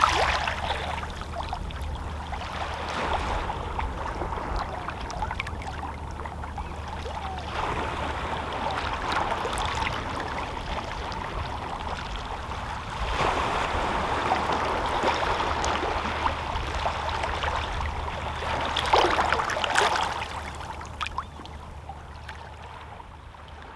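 Calm sea water lapping and splashing gently against shoreline rocks, in small washes that swell and ease every few seconds. The sound fades out near the end.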